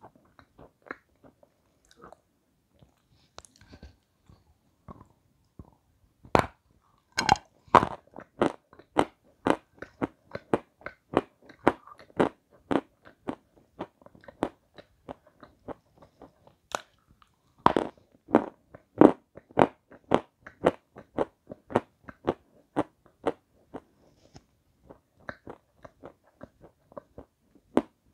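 Close-miked biting and chewing of a hard white chalky block. After a few faint crunches, loud bites come about six and seven seconds in and again near eighteen seconds. Each is followed by rapid crunching chews, two to three a second, which grow fainter toward the end.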